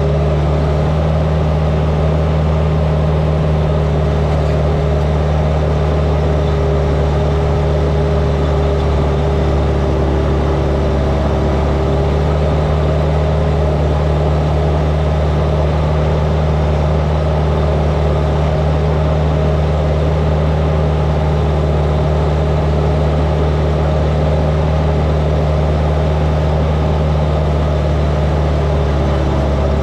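Heavy earthmoving machine's diesel engine running steadily at a constant pitch, loud and close.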